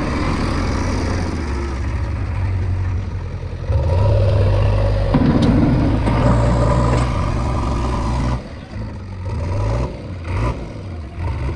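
Diesel vehicle engine running, rising in speed and loudness about four seconds in and dropping back about eight seconds in.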